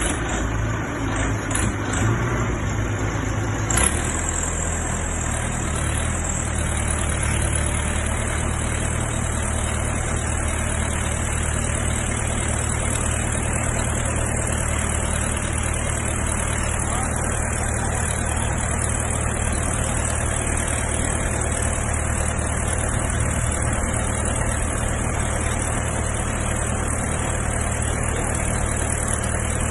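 Engine of a helical pile-driving machine running steadily, an even low drone that settles about four seconds in.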